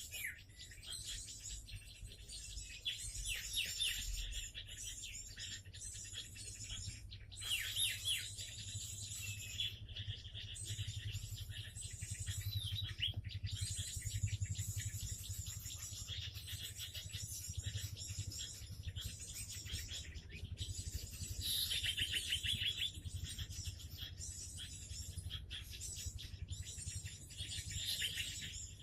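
Small songbirds chirping and calling over one another in quick, high twittering phrases, with a faint steady low hum underneath.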